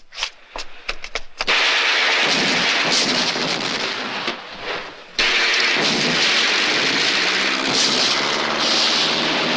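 Film action sound effects: a rapid, irregular run of sharp cracks like gunfire, then a loud steady rushing noise that breaks off abruptly about five seconds in and starts again at once.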